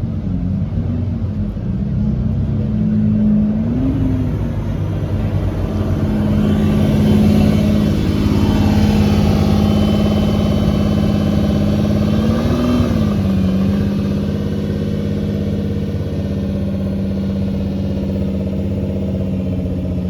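Car engine running at a steady low speed, with brief rises in revs about four seconds in and again near thirteen seconds.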